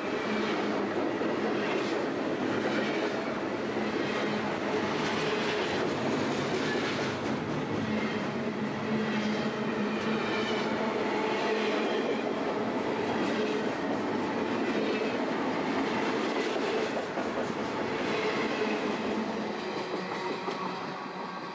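Union Pacific freight train of double-stack intermodal well cars rolling past, steel wheels clattering rhythmically over the rail joints with a steady rumble. The sound fades over the last couple of seconds as the end of the train moves away.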